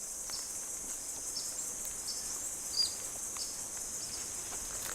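Rainforest ambience: a steady high drone of insects, with short bird chirps every second or so.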